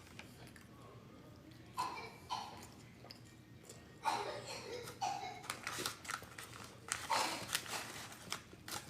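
A person chewing and biting food close to the microphone, in irregular short bursts a second or two apart: eating boneless chicken wings.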